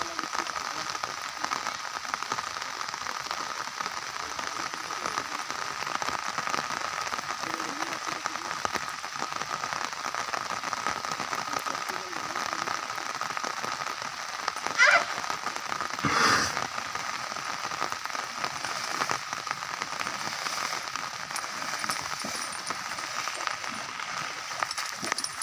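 Steady patter of heavy rain falling. About two-thirds of the way through, two short, loud sounds come about a second apart, the first with a quick wavering pitch.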